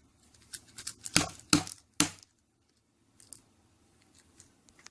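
Sharp clicks and snaps of small plastic Kinder Surprise toy parts and capsule being handled and fitted. The clicks are irregular, loudest three times between about one and two seconds in, followed by a few faint ticks.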